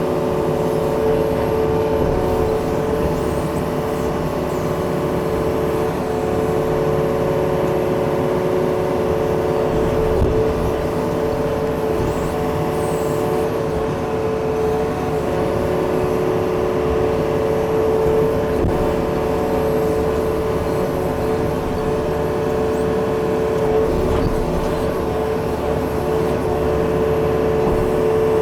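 Yanmar excavator running steadily at working speed, a steady whine of several tones over its diesel rumble, as the machine works at a tree stump.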